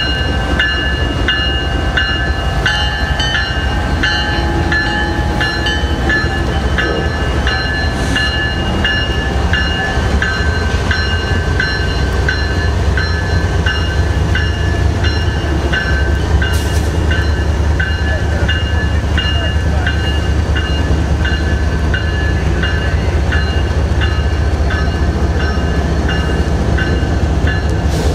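CN freight train's diesel locomotives and cars passing close by with a steady heavy rumble. A bell rings repeatedly over it, about twice a second.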